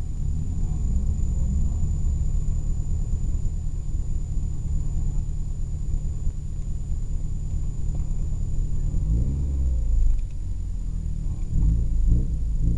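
Car engine idling with a steady low rumble, heard from inside the cabin, with the revs rising and falling about nine seconds in and several more times near the end.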